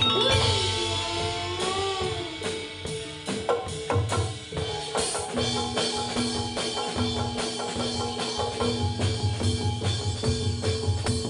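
Javanese gamelan playing a jathilan piece: saron metallophones ring out steady notes over a driving drum beat.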